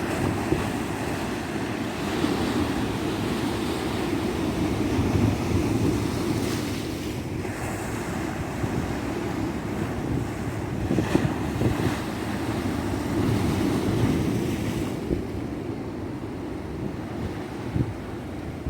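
Ocean surf washing onto a beach: a continuous rushing of waves that swells and eases every few seconds, with wind buffeting the microphone.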